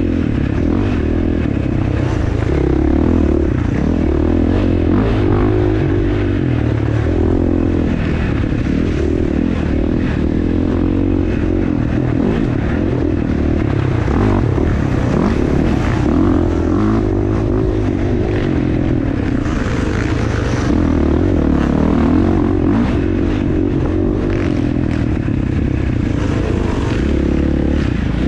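Dirt bike engine running hard while being ridden, its pitch rising and falling again and again with throttle and gear changes, with short knocks and rattles over it.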